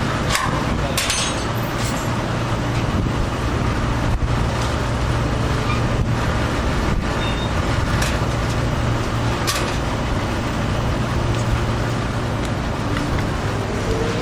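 A heavy diesel engine running steadily at idle, with a few brief clicks and hisses about a second in and again around eight and nine seconds in.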